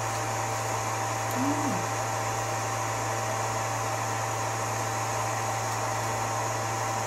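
Steady mechanical hum and hiss with a constant thin high tone, like a fan or motor running. A brief murmured voice about a second and a half in.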